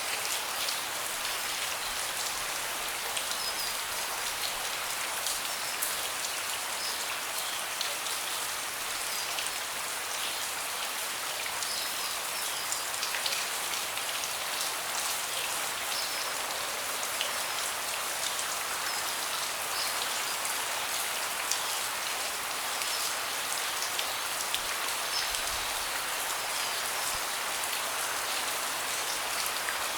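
Steady rain falling on a wooden deck, an even hiss with many individual drops ticking close by.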